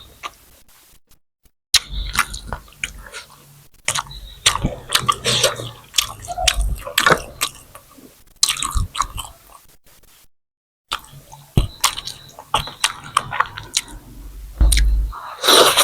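Close-miked eating sounds: chewing and biting with many short wet mouth clicks and smacks, cut off twice by brief total silences.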